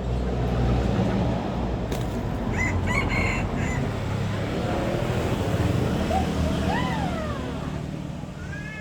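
A junglefowl cock crows once about two-thirds of the way in, a single call that rises and then falls in pitch. A few short, high chirping notes come around three seconds in. A steady low rumble runs underneath.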